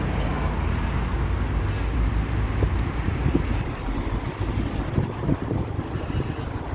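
Wind buffeting the microphone: a low rumble with irregular thumps over outdoor traffic noise.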